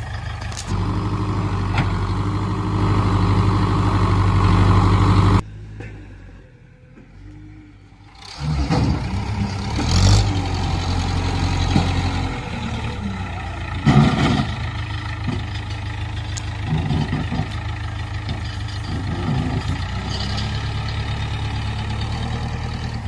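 Heavy diesel engine running under load, rising and falling in pitch. It cuts out suddenly about five seconds in and comes back about three seconds later, with a few sharp knocks after that.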